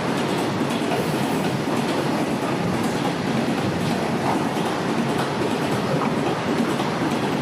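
Moving train running along the track, a steady noise of wheels on rails.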